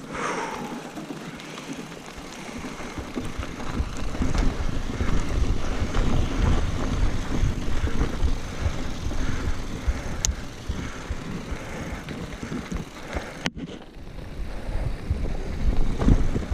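Wind rushing over the microphone of a mountain bike on a fast singletrack descent, with the bike rattling and clattering over rough ground.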